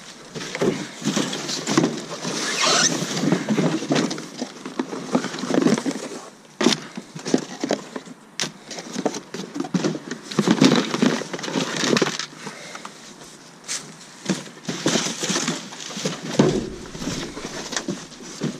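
Cardboard boxes of electronics gear being handled and shifted: irregular rustling and scraping with many sharp knocks and clatters.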